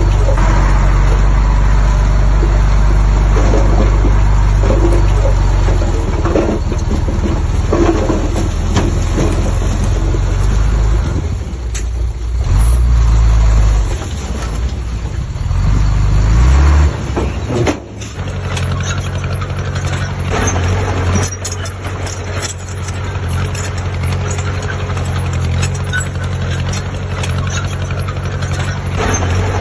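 Heavy diesel engine of earthmoving machinery running loudly, its pitch rising as it revs up from about twelve to seventeen seconds in. It then drops back abruptly near eighteen seconds to a steadier run with scattered clicks and rattles.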